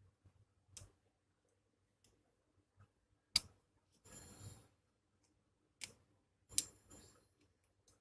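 Sharp plastic clicks and knocks from a manual desoldering pump being put back together, with a short scraping rasp about four seconds in. Some of the clicks carry a faint high ring.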